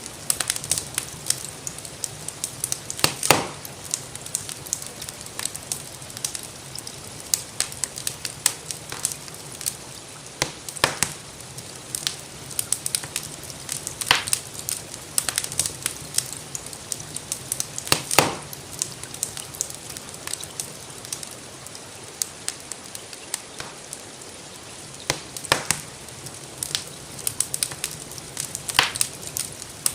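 Wood fire crackling in a fireplace: irregular sharp pops and snaps over a steady hiss, the loudest pops about three seconds in and around eighteen seconds in. Gentle rainfall is mixed in underneath.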